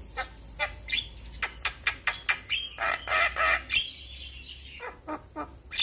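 Javan myna (jalak kebo) singing: a run of sharp clicking chirps that comes faster and faster, then harsh rasping calls about three seconds in, followed by a few more clicks.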